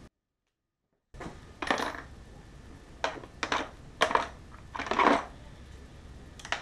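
About a second of dead silence, then a series of about six short clattering scrapes and knocks, like hard objects being handled or set down.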